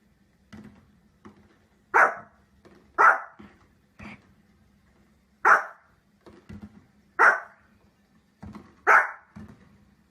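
A dog barking: five loud single barks spaced a second or more apart, with fainter short sounds between them.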